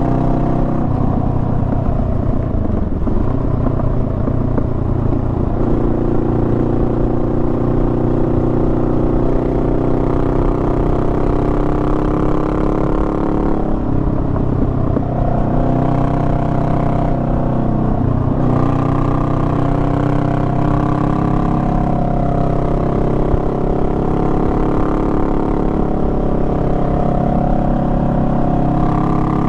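Honda Rebel 500's parallel-twin engine running under way, heard from the rider's position. The engine pitch dips and steps up again a few times, around three seconds in, near the middle and a little later.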